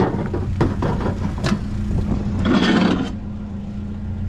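Vehicle engine idling steadily, with a few sharp knocks and clatters and a scrape of junked items being handled.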